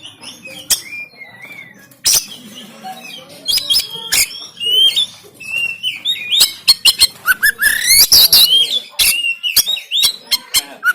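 Oriental magpie-robin (kacer) singing a fast, varied song: whistled notes and rising glides mixed with many harsh, clicking notes that come thicker and louder from about halfway through.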